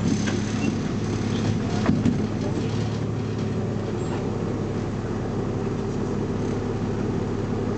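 BMC Belde 220-SLF city bus engine running at a steady speed, a constant low hum, with a brief knock or rattle about two seconds in.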